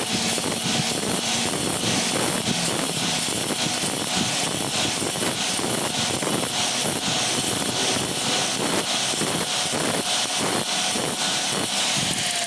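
Stone flour mill (atta chakki) running steadily, a loud even machine noise with a regular pulse about two to three times a second.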